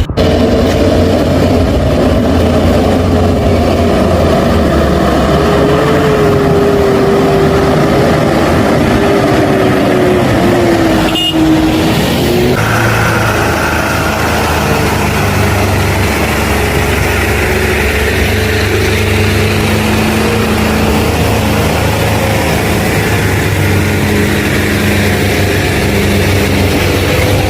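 Heavy truck engine running continuously, its pitch wavering and dipping slightly partway through, with a single short knock about eleven seconds in.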